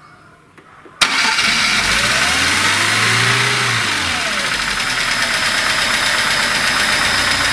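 Freshly rebuilt VAZ 2102 1.2-litre four-cylinder engine firing up about a second in on its first start after the rebuild and running loudly. It revs up briefly, then drops back to a fast idle.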